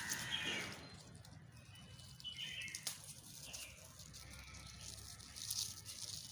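Birds chirping faintly in short, scattered calls, with a single sharp click about three seconds in.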